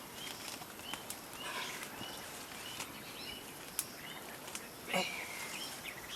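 Forest ambience: a short rising-and-falling chirp repeated about every half second over a steady hiss, with scattered sharp clicks and a louder call about five seconds in.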